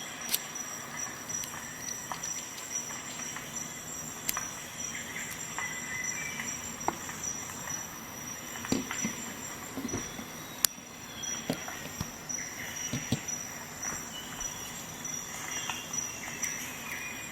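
Victorinox Swisschamp XLT Swiss Army knife being handled, its tools opened and closed: scattered sharp clicks and short light scrapes, over a faint steady high whine.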